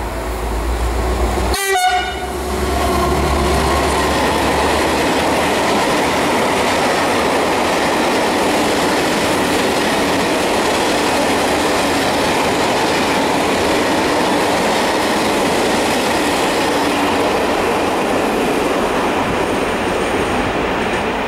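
Class 335 (Vossloh Euro 4000) diesel locomotive passing close by, its EMD two-stroke V16 engine giving a deep hum, with a short horn blast about two seconds in. A long train of hopper wagons then rolls past with a steady rumble and clatter of wheels on rail, easing slightly near the end.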